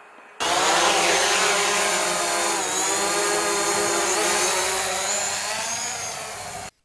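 DJI Mavic Pro quadcopter's propellers and motors running loud, a steady buzzing whine of several tones that waver slightly in pitch. It starts abruptly about half a second in and cuts off abruptly near the end.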